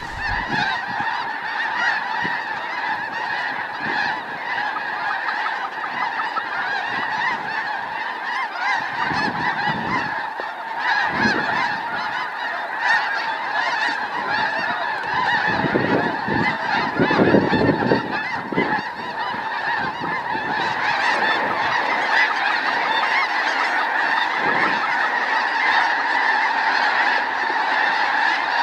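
A large flock of snow geese calling continuously, many high honking calls overlapping into a dense din.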